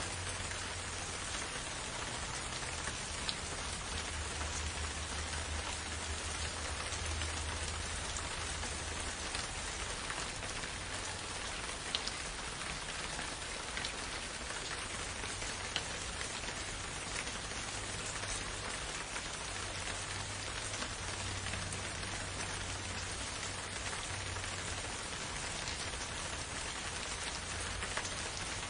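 Steady rain falling in a forest, an even hiss with a few louder single drops standing out, over a low rumble.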